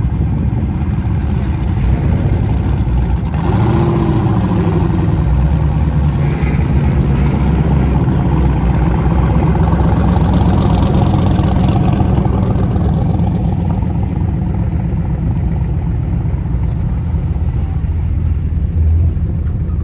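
Car engines and exhausts rumbling as cars drive slowly past, with a brief rise and fall in engine pitch about four seconds in.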